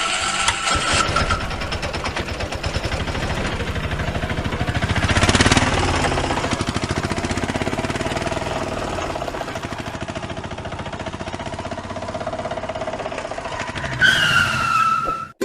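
Vehicle engine running with a fast, even pulse, swelling louder about five seconds in and then easing off. Near the end comes a short falling tone.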